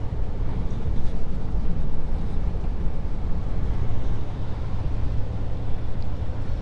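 Scania S500 truck at highway speed, heard inside the cab: a steady low engine drone with road and tyre noise.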